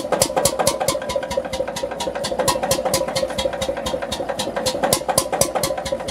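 Hatz H2 single-cylinder, water-cooled stationary diesel engine running steadily at low speed, giving an even knocking beat of about five or six strokes a second.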